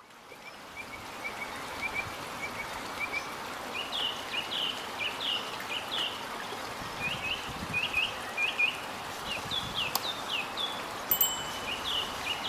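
Small birds calling in quick runs of short chirps, the notes getting higher and louder about four seconds in, over a steady background hiss. The sound fades in at the start.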